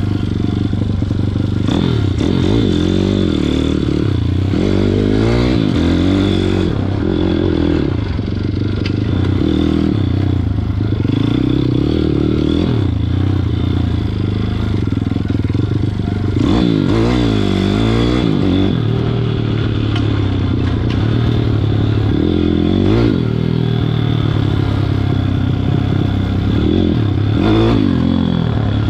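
WPB 160 pit bike's single-cylinder four-stroke engine being ridden, its revs rising and falling again and again.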